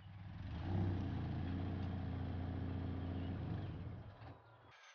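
Scion FRS's 2.0-litre flat-four engine running at low revs as the car reverses slowly. The sound swells about a second in, holds steady, then fades as the car brakes to a stop, and it cuts off abruptly just before the end.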